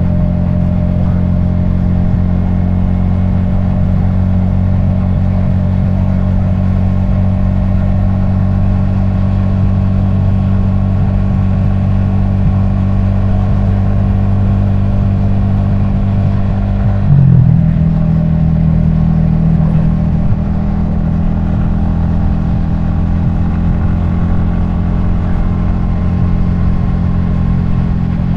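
Yamaha XSR155 motorcycle's 155 cc single-cylinder engine and exhaust running steadily while riding, heard from a helmet-mounted camera. About two-thirds of the way through, the engine note breaks briefly and settles at a different pitch.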